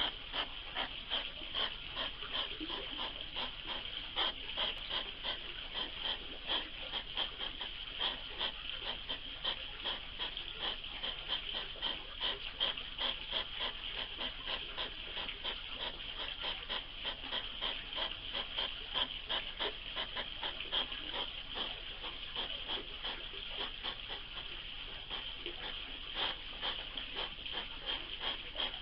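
Two hedgehogs making noise: a rapid, unbroken run of short puffing pulses, several a second.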